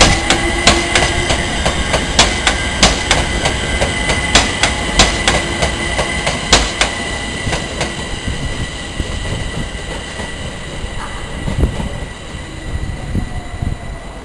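A train running through the station, its wheels clicking over rail joints and pointwork under a steady high wheel squeal. The clicks thin out and the sound fades in the second half as the train draws away.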